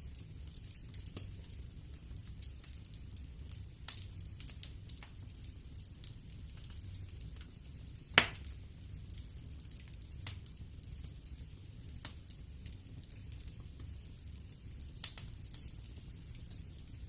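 Wood fire burning in a fireplace: a low steady rumble with scattered crackles and sharp pops, the loudest pop about halfway through.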